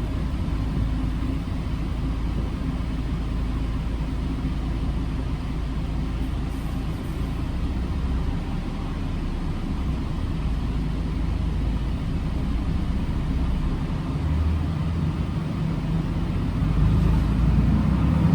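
A bus's engine and road noise: a steady low rumble that grows a little louder near the end.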